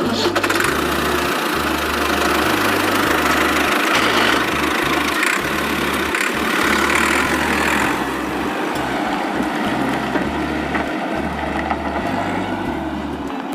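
Tractor engine running steadily, cutting in suddenly in place of music.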